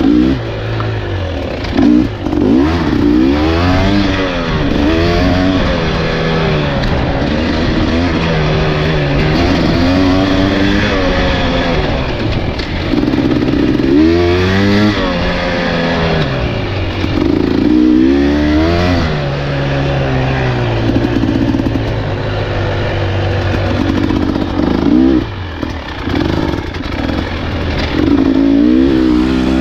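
Husqvarna enduro dirt bike engine running under constant throttle changes, its pitch rising and falling every second or two as the rider twists on and rolls off over rough trail.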